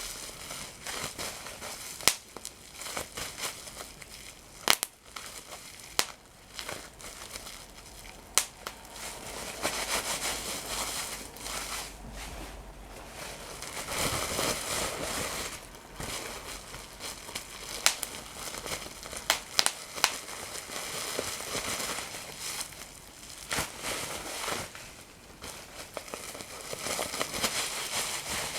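Paper crinkling and crumpling close to the microphone: a continuous rustle broken by scattered sharp cracks and snaps.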